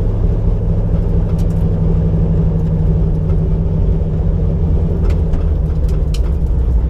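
1989 Mustang GT's 5.0 V8 running steadily at low revs, heard from inside the cabin as a deep, even rumble, with a few faint clicks and rattles.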